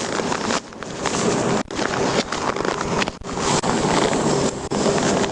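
Wind buffeting the microphone with a steady rushing noise, as of traffic going past. The noise briefly drops out twice.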